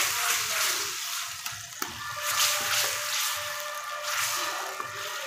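Thick onion-tomato gravy sizzling and bubbling in an iron kadai while a spatula stirs the paneer through it, with a few short scrapes and knocks of the spatula against the pan.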